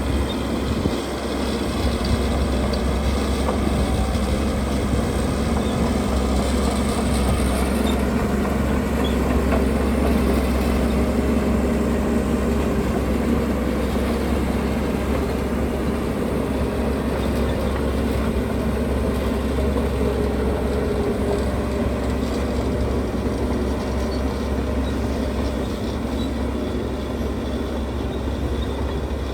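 Diesel engine of heavy construction machinery running steadily with a low drone.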